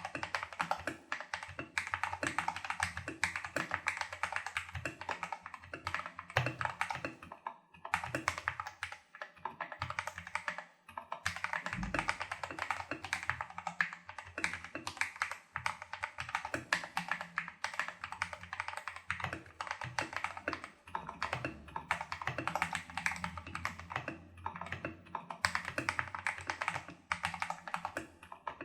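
Fast, continuous typing on a Tester68 mechanical keyboard with lubed Holy Panda clone tactile switches and XDA-profile keycaps: dense key clacks, broken by brief pauses about 8 and 11 seconds in. The switches are lubed, the PCB taped and the stabilizers greased and modded.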